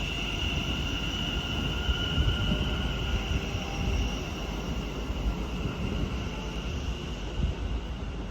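A train moving at a station, with a low rumble and a steady high-pitched whine that slowly fades away.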